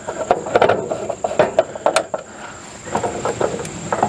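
Irregular light clicks and clinks of screws and small parts being handled against the RV furnace's brittle plastic cover during reassembly. The clicks are thickest in the first two seconds and again near the end.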